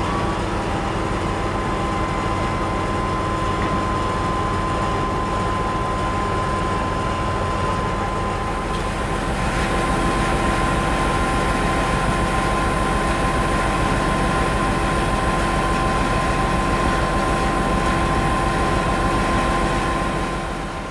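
M62 diesel locomotive's two-stroke V12 diesel engine running under way, a fast, even low throb with a steady high whine above it. It grows louder about ten seconds in and eases off near the end.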